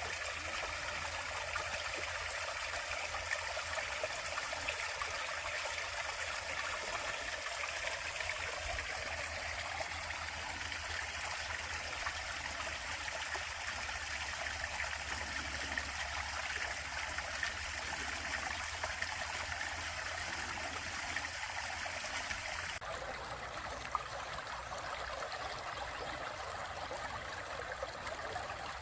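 A stream running steadily, an even rushing water sound that turns abruptly duller near the end.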